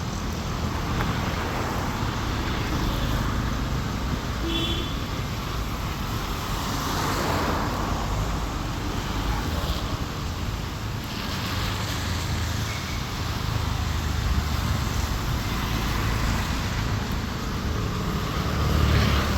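Road traffic: vehicles passing steadily, a low engine rumble and tyre noise that swells several times as individual vehicles go by.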